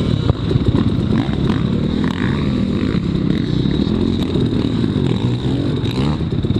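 Dirt bike engine heard up close, revving up and down unevenly as it is ridden slowly through mud.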